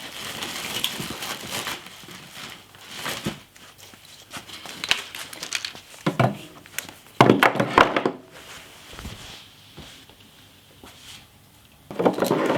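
Handling noise from the welding machine's cables and packaging being set in place: irregular clunks and knocks, with crinkling plastic between them.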